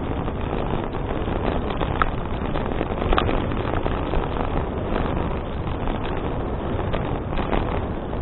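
Wind rushing over an action camera's microphone on a moving bicycle, a steady noise mixed with the rumble of the tyres on the path, with a few light clicks about two and three seconds in.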